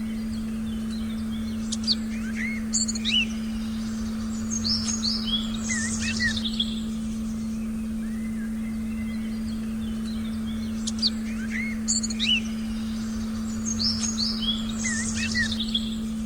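Forest birdsong, with bursts of short chirps and quick whistled sweeps, over a steady low pure tone held throughout. The same run of calls comes round again about nine seconds later, as in a looped recording.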